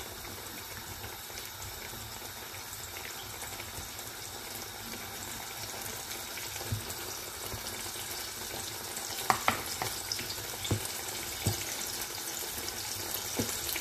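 Oil sizzling steadily as chicken fillets deep-fry in a pan, with a few sharp clicks and scrapes of a fork in a bowl of flour coating in the second half.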